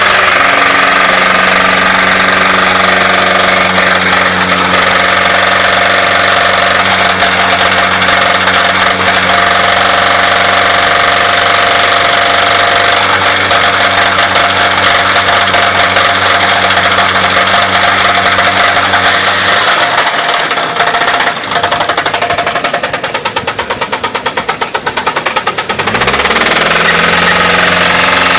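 Chevrolet S10's 2.2-litre four-cylinder engine run hard at steady high revs, knocking from a spun or worn connecting-rod bearing (rod knock). About two-thirds of the way through the note breaks up and wavers for several seconds. Then the revs climb back to the steady high note.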